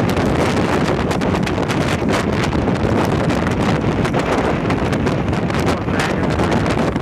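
Heavy wind buffeting on the microphone of a Kawasaki ZX-6R being ridden at speed, with the bike's engine running underneath the wind.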